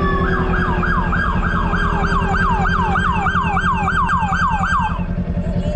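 Police siren on yelp: fast falling whoops, about three a second, that stop about five seconds in. A motorcycle engine idles steadily underneath.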